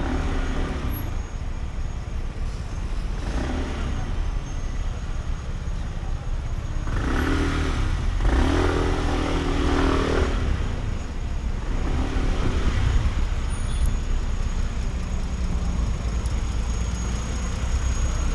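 Sym Jet X 125 scooter's single-cylinder engine running under way, with a heavy low wind rumble on the microphone. The engine note comes and goes in swells as the throttle changes, loudest for a few seconds around the middle.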